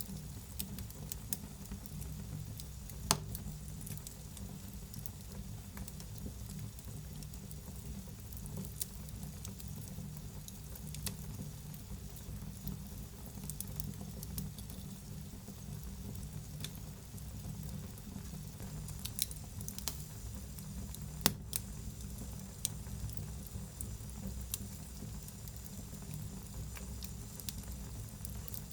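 Wood fire burning in a fireplace: a steady low rumble of flames with irregular sharp crackles and pops, several louder pops about 3 s in and around two-thirds of the way through.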